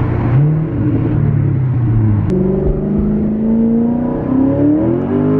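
Chevrolet Corvette C7's 6.2-litre V8 accelerating hard through the gears in manual mode, heard from inside the cabin. The revs climb and reset at the upshifts. Its exhaust now runs with the mufflers removed and the resonators kept.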